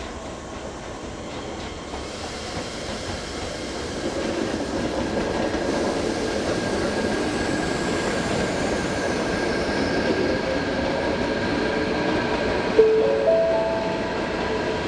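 Keisei 3000-series electric commuter train rolling over the points at low speed, its wheel and track rumble growing louder as it draws close and then holding steady. A faint high whine falls in pitch as it slows. About thirteen seconds in, a quick run of short tones rising in pitch is the loudest sound.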